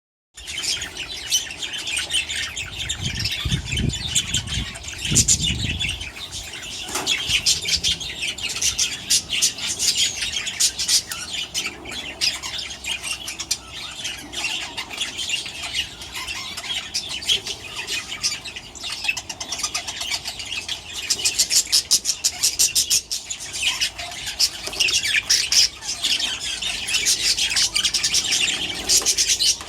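A flock of budgerigars chattering and squawking continuously, many quick high calls overlapping. A few low thumps come about four to five seconds in.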